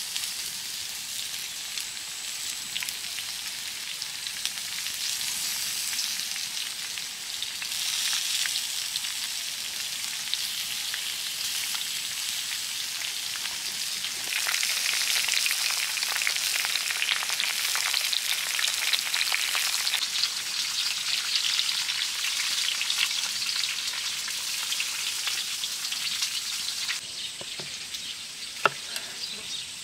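Food sizzling as it fries in hot oil, a dense crackling hiss full of fine pops. It grows louder about halfway through and eases near the end, where a couple of sharp clicks stand out.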